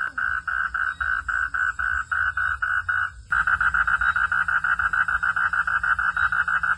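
A frog calling in a fast, steady pulsing rhythm at night, about five pulses a second; the calling breaks off briefly about three seconds in and starts again quicker, about seven pulses a second.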